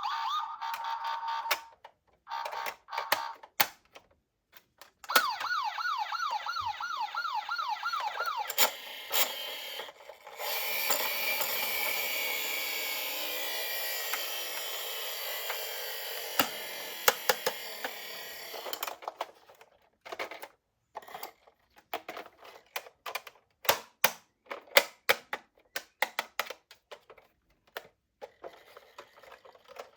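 Toy police car electronic sirens. A siren tone cuts off about a second in, and from about five seconds in a repeating rising yelp runs for a few seconds at about three sweeps a second. Then comes a steady rushing noise that slowly fades over about eight seconds, followed by scattered clicks and taps.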